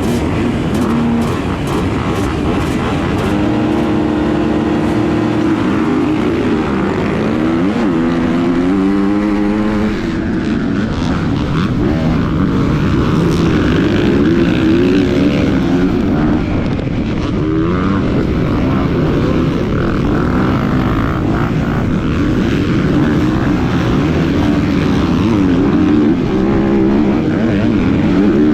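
250-class motocross bike engine revving up and dropping again and again, the pitch rising and falling as it accelerates, shifts and backs off, over a steady rushing noise.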